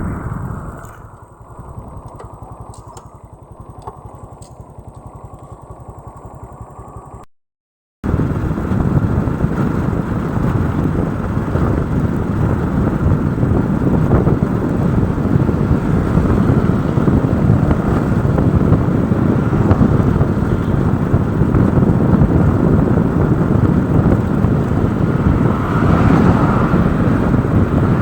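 Motorcycle riding: engine running under a rush of wind on the microphone. It is quieter for the first few seconds, cuts out briefly, and then comes back as loud, steady wind and engine noise.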